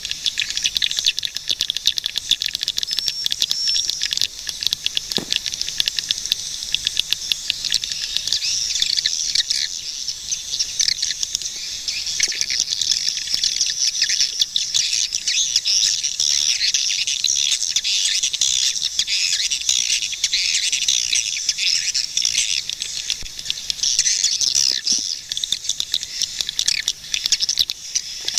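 A flock of swiftlets calling: a dense, unbroken chatter of high-pitched chirps and twitters with many sharp clicks mixed in, holding steady.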